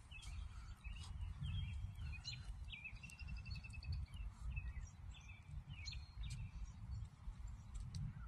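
Small songbirds chirping and calling, with a short rapid trill about three seconds in, over a steady low rumble.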